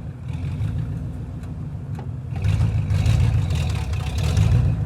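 Gasoline truck engine running with a low, pulsing rumble that sounds like a diesel; it gets louder about two and a half seconds in.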